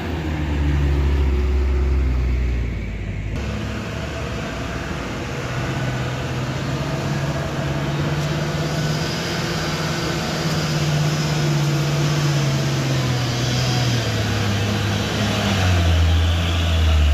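Heavy truck diesel engine labouring in a low gear up a steep climb. It runs deep and slow at first and again near the end, and a little higher and steadier through the middle.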